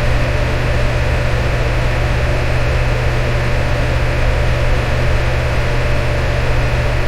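Electric fan running steadily: an even whoosh of air over a low motor hum.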